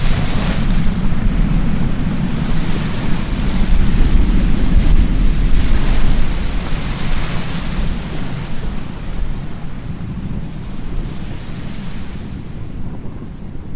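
Surf washing in on a beach in several surges, under strong wind buffeting the microphone with a heavy low rumble. The wash is loudest in the middle and thins out near the end, leaving mostly the wind rumble.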